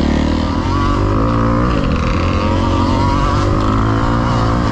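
Dirt bike engine running hard on the trail, heard from the rider's helmet; its pitch drops briefly about two seconds in, then climbs again.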